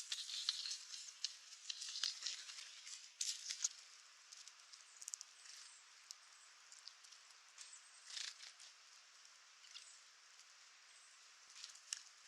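Faint, irregular rustling and scratching with many sharp little clicks. It is busiest in the first few seconds, with another short flurry near the middle and a single click near the end.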